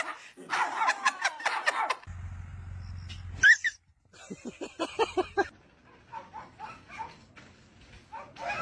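A dog barking: one loud, high yelp, then a quick run of short yips and barks that fade to fainter ones.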